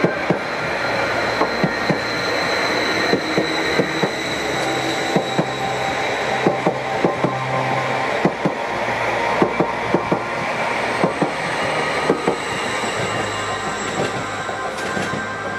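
Electric passenger multiple unit rolling past over pointwork: a steady rumble of wheels on rail with many sharp clicks as the wheels cross the rail joints and crossings, and a faint high whine, easing off near the end as the train draws away.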